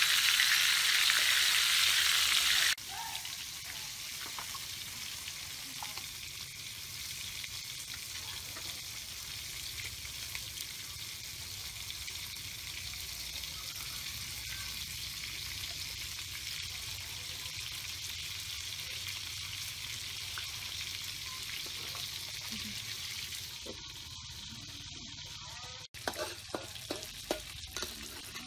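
Fish pieces frying in oil in a steel wok: a steady sizzle, loud and close for the first few seconds, then quieter. Near the end a metal spatula scrapes and clicks against the wok as the fish is stirred.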